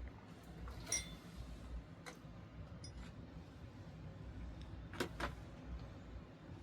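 A few separate clinks and knocks, the first about a second in with a brief ringing tone and the loudest two close together about five seconds in, over a low steady rumble.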